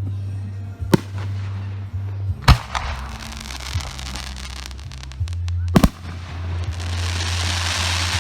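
Large aerial firework shells going off, which the shooter takes for 6-inch shells. There is a sharp bang about a second in, another about two and a half seconds in and a double bang near six seconds, each followed by a hissing crackle. A steady low hum runs underneath.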